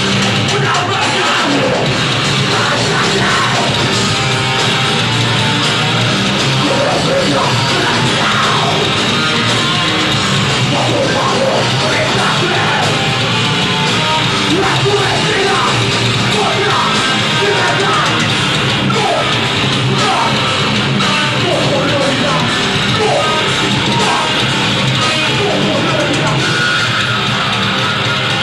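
A live rock band playing loud, distorted heavy music, with guitars, drums and shouted vocals.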